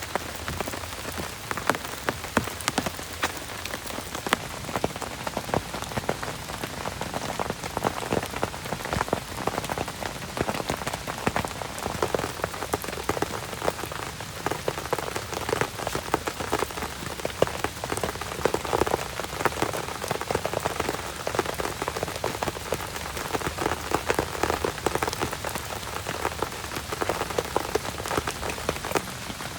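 Heavy rain falling steadily: an even hiss packed with countless individual drop hits on a surface.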